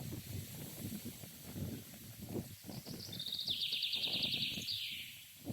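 Wind buffeting the microphone in uneven low gusts. About two and a half seconds in, a songbird sings a fast, high trill of rapidly repeated notes for about two seconds, ending with a falling note.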